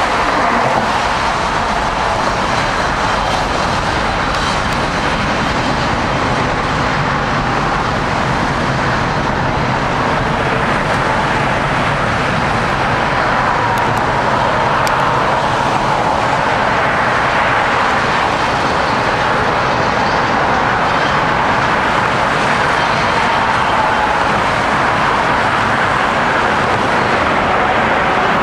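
A long CSX freight train's cars rolling past: a steady, loud rumble and rattle of steel wheels on the rails, with a faint wavering ring from the wheels.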